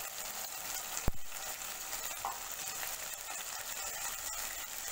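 Julienned vegetables with freshly poured soy sauce sizzling in a steel wok, a steady hiss with fine crackle. One sharp knock about a second in.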